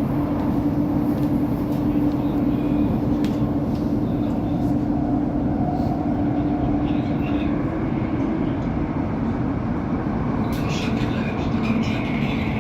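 Inside a Class 345 Elizabeth line train running between stations: a steady, loud rumble of the train on the rails with a constant humming tone, which drops a little in pitch about eight seconds in.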